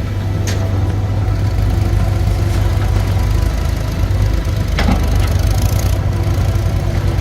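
Heavy diesel engine of a tractor or earthmover running with a steady low drone. A sharp click comes about half a second in, and a knock just before five seconds.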